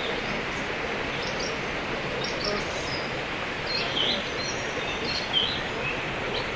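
Birds chirping in short, high, scattered notes over a steady wash of outdoor noise.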